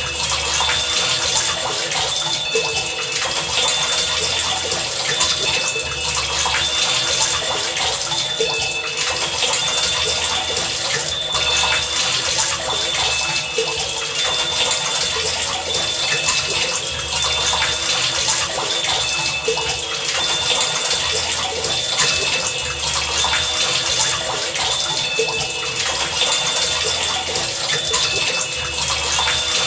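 Heavy rain falling in a steady, dense hiss. Short high tones and low pulses recur through it every few seconds.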